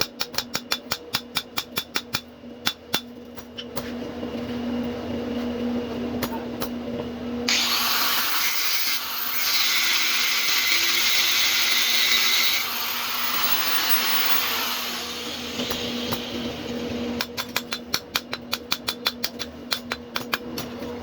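Rapid hammer blows on metal, about six a second, then a power tool such as an angle grinder runs loudly for about five seconds and winds down. A second run of quick hammer blows comes near the end.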